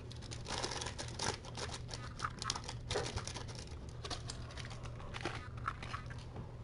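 Irregular crinkling and scratchy rustling of crinkly material, a dense run of small crackles and scrapes with a few louder ones.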